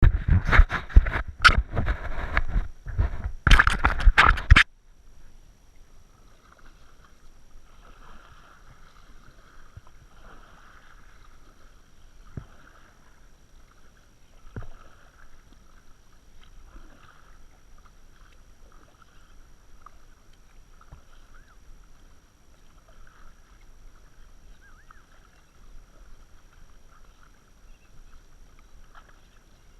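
Loud bumping and rustling close to the microphone for the first few seconds, then faint water sounds of a kayak out on the water, with an occasional soft knock.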